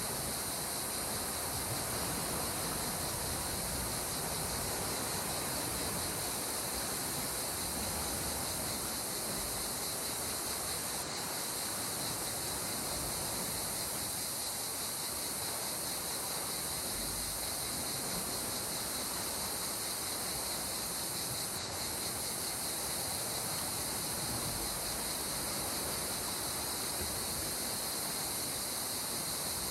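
Steady wash of calm sea water under a continuous high-pitched insect chorus, with two brief dips about a third and two thirds of the way through.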